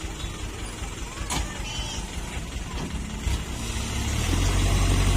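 Toyota Dyna dump truck's diesel engine running with a low hum that grows louder about four seconds in. A single sharp knock sounds about a second and a half in.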